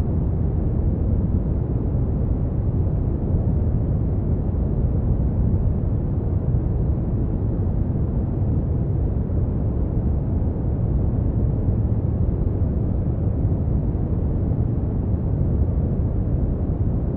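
Steady brown noise: an even, deep rumbling hiss, strongest in the bass and fading out toward the treble, with no changes.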